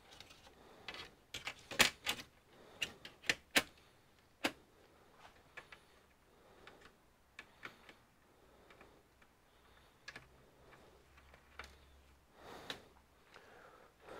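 Irregular clicks and light taps of computer parts being handled during repair work, busiest in the first few seconds and scattered after.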